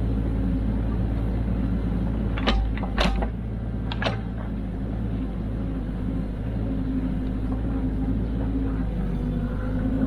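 Kubota KX121-3 mini excavator's diesel engine running steadily under hydraulic work, with a few sharp metallic knocks about two and a half, three and four seconds in as it digs out the dirt in front of itself.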